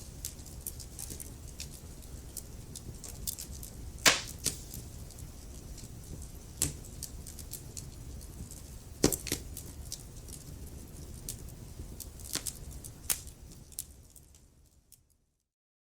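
Wood fire crackling with a low rumble of flames and frequent small snaps, with a few loud sharp pops, the loudest about 4 and 9 seconds in. It fades out to silence near the end.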